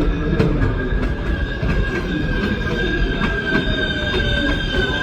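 A New York City Subway 7 train moving through an elevated station: a rumble of wheels on rail under a steady, high-pitched squeal that sags slightly in pitch, with a few faint clicks from the track.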